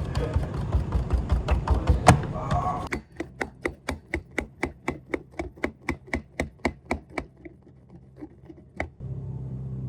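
Knife chopping on a cutting board in quick, even strokes, about five a second for roughly four seconds. Before it comes a busy clatter with one sharp knock, and near the end a steady low hum starts.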